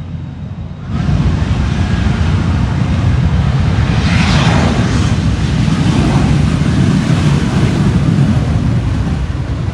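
Aircraft passing overhead: a loud, dense engine noise that starts abruptly about a second in and swells briefly around four to five seconds.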